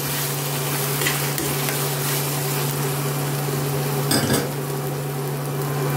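Onion-tomato masala sizzling in oil in a steel kadhai as a spoon stirs it, cooked through to where the oil separates, with a short clink of the spoon on the pan about four seconds in. A steady low hum runs underneath.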